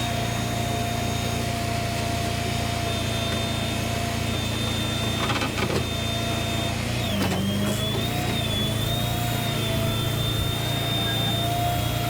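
Tow truck driving, heard from inside the cab: a steady engine and road drone with a thin mechanical whine that dips in pitch and recovers about seven seconds in.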